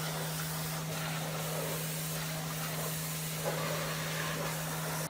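Electric road sweeper truck working: a steady rushing hiss from its suction and sweeping gear, over a steady low hum.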